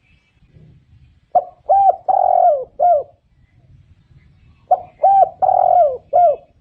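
Spotted dove cooing: two repeated phrases, each a short lead-in note followed by three coos, the middle one held longest and falling in pitch at its end.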